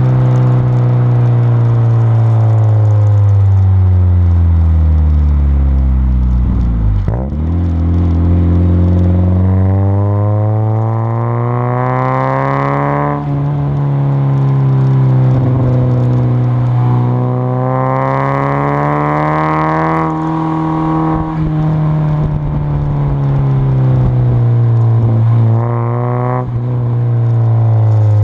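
1992 Mazda Miata's four-cylinder engine running through a baffle-less Goodwin Racing RoadsterSport 3 catback exhaust while driving. The revs sink for several seconds, then climb twice, each climb ending in a sudden drop in pitch like a gear change, and sink again near the end.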